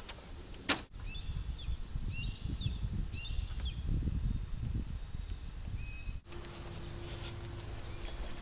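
Small birds chirping: a run of short chirps a second or two in and one more near the middle, over a low rumble. A sharp click comes just before the chirps.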